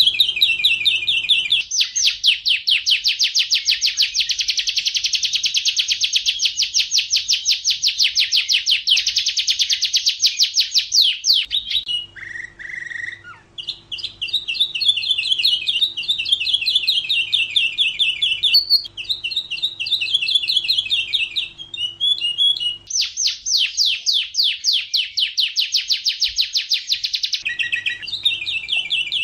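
Domestic canary singing long, very fast rolling trills, one trill running straight into the next, with a brief break about twelve seconds in.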